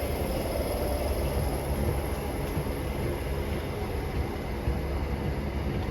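Electric multiple-unit train, a Class 320, running through the station with a steady low rumble.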